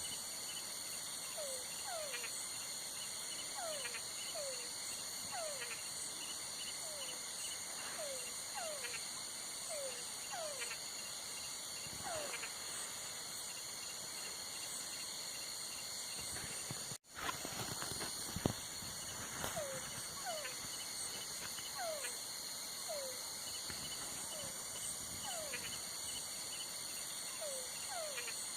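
Night chorus of calling insects: several steady, high-pitched trills running together. Over them comes a string of short chirps that fall in pitch, mostly in pairs, every second or two. About two-thirds of the way through, the sound cuts out for an instant and comes back with a small click.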